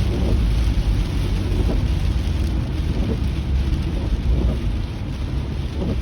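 Rain on a moving car, heard from inside the cabin, over a steady low road and engine rumble. A soft sound repeats about every second and a half.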